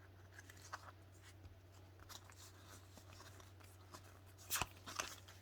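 Faint rustling and soft clicks of Pokémon trading cards being handled and flipped through, with a couple of sharper clicks about four and a half and five seconds in.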